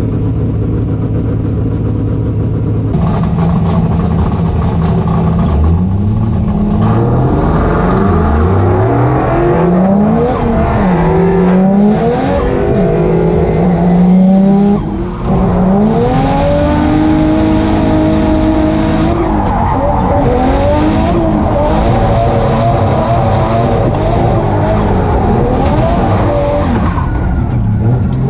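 Drift car's turbocharged 1JZ straight-six being driven hard, revving up and down again and again as the car slides, with tyre noise under it. It runs steady for the first few seconds, then the pitch climbs and falls over and over, with a brief drop in loudness about halfway through.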